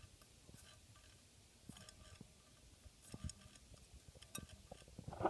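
Faint, scattered ticks and light scraping from the quadcopter's front-left motor being spun by hand: the frictiony, grindy sound that marks it as the problem motor.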